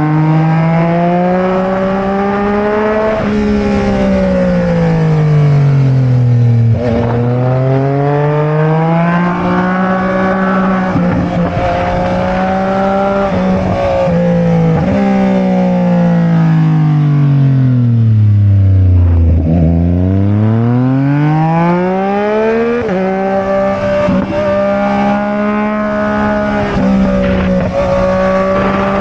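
Sport motorcycle engine under way, revs climbing and dropping repeatedly through the gears. About two-thirds through the revs fall slowly to a low pitch as it slows, then climb quickly again and hold steady near the end.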